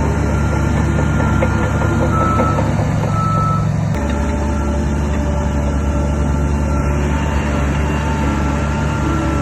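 Heavy diesel earthmoving machinery running steadily, with a reversing alarm beeping. The engine sound changes abruptly about four seconds in.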